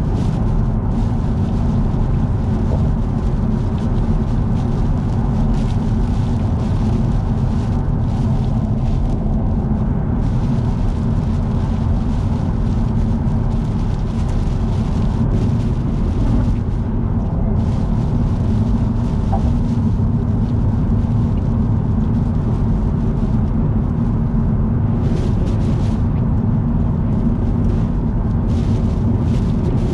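Steady rumble of a car travelling at expressway speed: low tyre and road noise, with a higher hiss that fades and returns several times.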